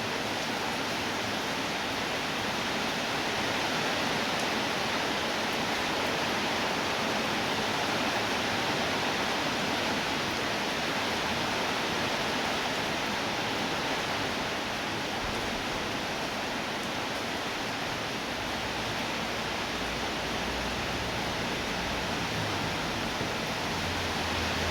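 Steady rainfall, an even hiss of rain without a break. A faint low rumble joins it in the second half.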